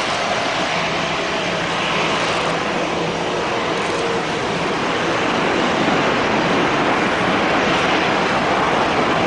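Airbus A320-216 jet airliner with CFM56 turbofan engines running at the runway, a loud, steady rush of jet noise that grows a little louder about six seconds in.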